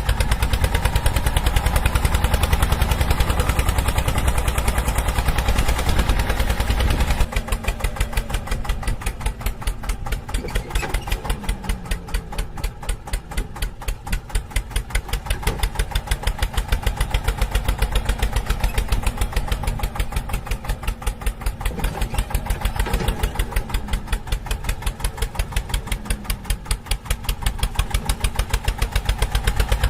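Small engine of a miniature model tractor running steadily, with rapid, even firing beats. The deep rumble drops away about seven seconds in while the engine keeps running.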